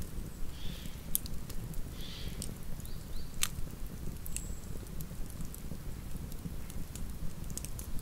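Campfire burning: a steady low rush of flames with scattered sharp crackles and pops from the burning wood, the loudest snap about three and a half seconds in.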